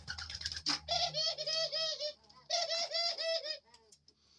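Pet dove cooing in two bouts of quickly repeated calls, about a second in and again halfway through.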